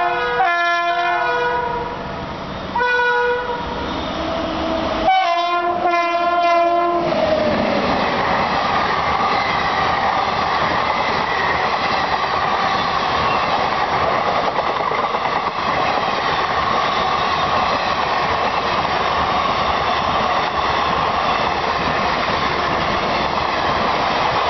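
A WAP-7 electric locomotive's twin-tone horn sounds three times in the first seven seconds, the last blast dropping in pitch as the locomotive passes. Then the train's coaches rush by at speed, a steady noise of wheels on rail for the rest.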